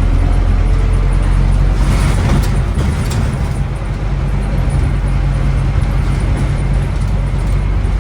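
Scania N270UD OmniCity double-decker bus's diesel engine running under way with a steady low note. It eases off briefly about halfway through, then pulls on steadily.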